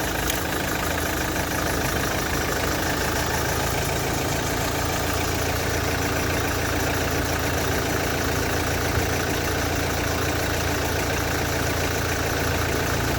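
Renault Clio 4's 1.5 dCi four-cylinder diesel engine idling steadily.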